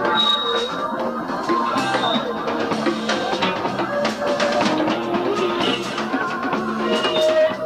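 Live rock band playing an instrumental passage: guitar picking out melodic notes over bass guitar and a steady drum-kit beat with hand percussion.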